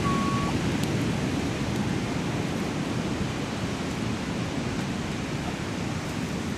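Steady rushing noise of ocean surf breaking on the beach, easing slightly in level. A brief steady high tone sounds in the first half second.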